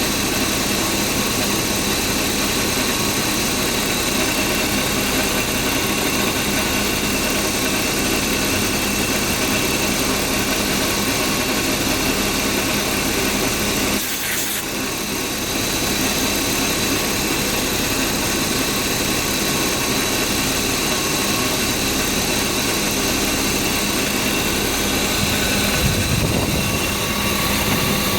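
BMW E36 328ic's 2.8-litre straight-six engine idling steadily, with a brief dip in level about halfway through.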